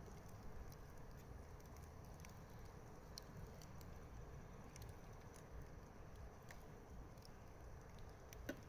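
Wood fire crackling faintly, with scattered small pops and a slightly louder one near the end.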